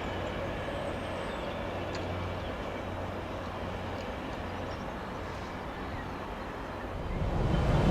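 Freight train running on the line, a steady rumble of wheels on rails that grows sharply louder near the end.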